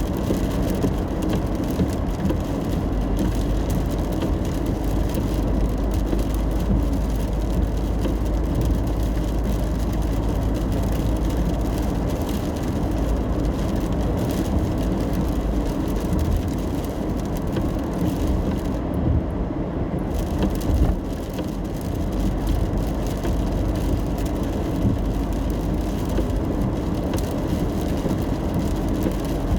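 A car driving in the rain, heard from inside the cabin: a steady low road and engine rumble with a hiss of rain and tyre noise over it. About two-thirds of the way through, the high hiss drops away for about a second.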